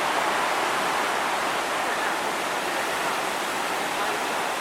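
Heavy surf from a typhoon swell breaking on a beach: a steady, unbroken rush of noise with no distinct single wave crashes.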